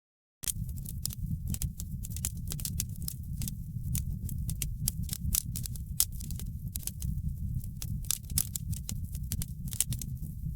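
Wood fire in a fireplace crackling, with many sharp irregular pops over a steady low rumble of the flames. The sound cuts in about half a second in, after a brief silent gap.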